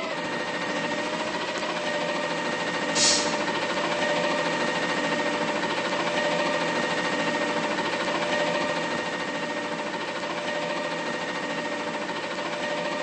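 Mack LR McNeilus front-loader garbage truck running steadily, a diesel drone with a constant hum, and a short hiss about three seconds in.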